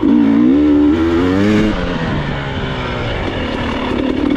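Enduro motorcycle engine under throttle: it revs up sharply at the start, eases off to a lower steady pull a little under two seconds in, then picks up slightly near the end.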